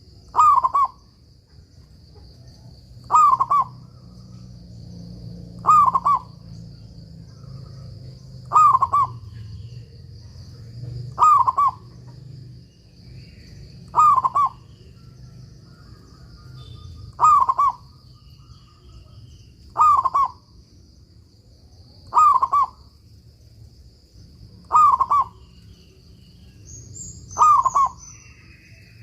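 Local zebra dove (perkutut) singing its cooing song over and over: eleven short phrases about every two and a half to three seconds, each falling in pitch, with a faint steady high-pitched tone underneath.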